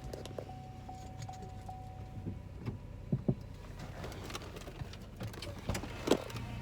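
Inside a car: a steady low engine hum, with a few scattered clicks and knocks. A faint thin steady tone stops about two seconds in.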